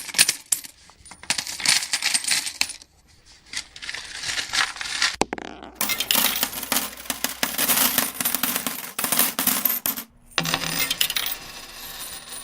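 Coins being handled and counted, clinking and rattling in dense bursts with short pauses between them.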